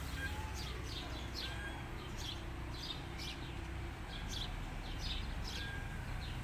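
Small birds chirping, a run of short, high, downward-slurred chirps at about two a second, over a low steady rumble.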